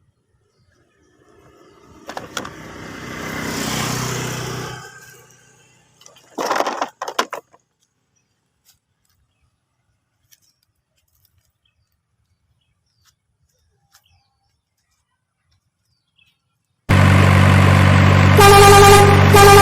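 A motor vehicle passes, its engine sound swelling and then fading over a few seconds, followed by a brief burst of noise. Near the end a very loud, steady sound made of several held tones cuts in suddenly.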